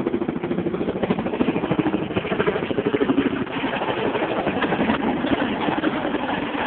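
RAF Chinook helicopter's tandem rotors beating rapidly, with the drone of its engines, heard through a phone's microphone.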